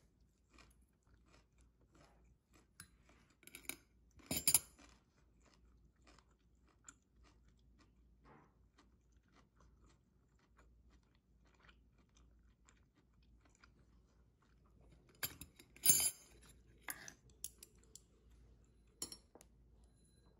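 A person eating at close range: soft chewing throughout, with two louder bursts of crunching, about four seconds in and again around sixteen seconds in, and a few sharp clicks near the end.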